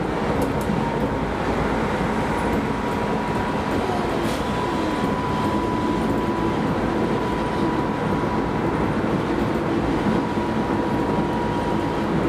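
Keisei Line rapid train running steadily, heard from inside the passenger car: an even rolling rumble of wheels on rail with a thin steady whine held through it.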